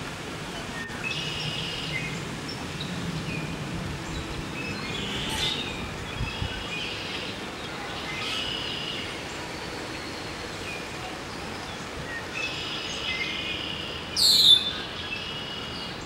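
Birds singing short high phrases every few seconds over a steady outdoor hiss. Near the end, one loud call sweeps sharply down in pitch.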